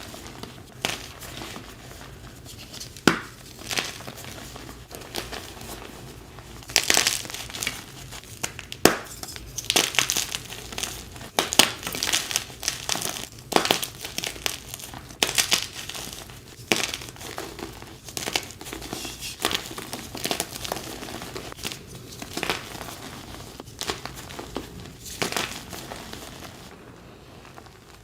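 Blocks of dyed gym chalk being crushed and crumbled by hand, giving a run of irregular dry crunches and crackles that thin out shortly before the end.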